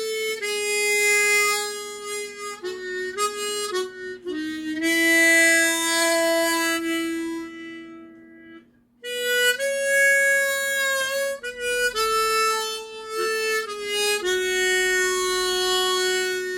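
Harmonica playing a slow melody in two phrases of long held notes with a short break between them, the notes shaped with vibrato.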